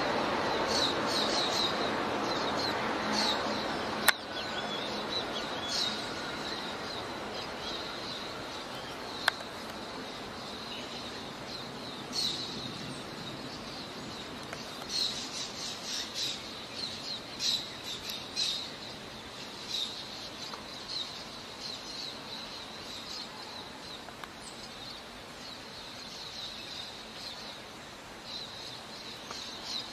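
Small birds chirping in short, repeated high calls, bunched in clusters, over a steady outdoor hiss. There are two sharp clicks, about four and nine seconds in.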